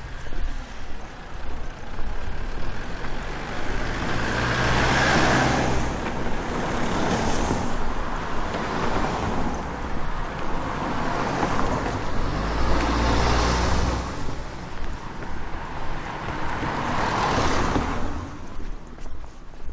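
Road traffic: about five vehicles pass one after another, each swelling and fading over a couple of seconds. One, about two-thirds of the way through, has a deeper engine rumble.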